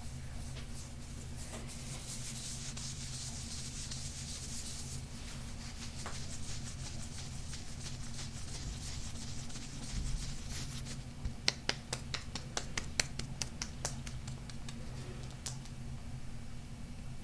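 Close-up hands rubbing and scratching a golden crystal stone: a soft, hissy rub early on, then fine scratching, and a cluster of sharp taps on the stone from a little past halfway. A steady low hum runs underneath.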